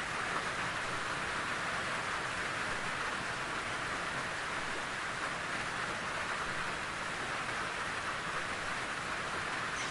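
Steady rain falling in a forest, an even hiss with no breaks.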